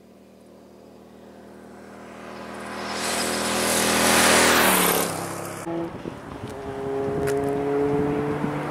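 A motor vehicle's engine approaches and passes close by, growing louder to a rush, then drops in pitch as it goes away. After an abrupt cut about two-thirds of the way in, an engine runs on under gusting wind noise on the microphone.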